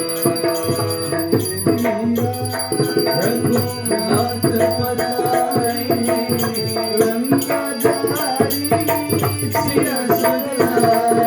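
Hindu arti hymn being sung, with several gliding melodic lines over continuous rattling hand percussion and drumming.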